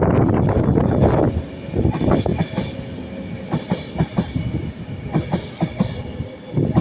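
Class 390 Pendolino electric train passing at speed: a loud rush of wheel and air noise that drops away about a second in, then irregular clicks and thumps of wheels over the rail joints as it draws away.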